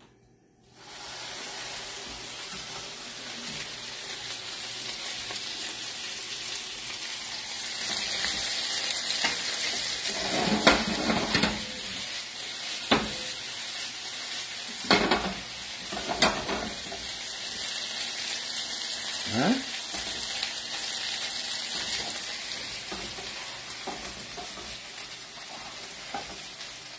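Gnocchi sizzling in butter and sage in a frying pan over a gas flame. The sizzle starts suddenly about a second in and runs steadily, with a few sharp knocks and a scrape from the spoon against the pan around the middle.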